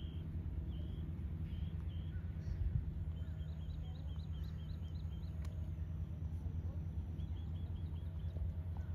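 Small birds chirping: short high calls in quick runs of several notes, over a steady low rumble.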